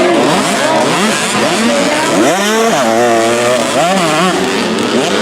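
Several 65cc two-stroke motocross bikes racing together, their engines revving up and falling back over and over as they accelerate and shift; one bike climbs sharply in pitch about two seconds in and holds before dropping back.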